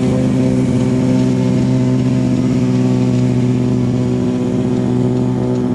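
Motorcycle engine running steadily at a constant, unchanging pitch, with no revving.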